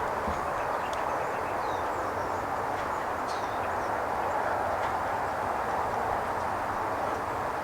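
Steady outdoor background hiss with a few faint, high bird chirps.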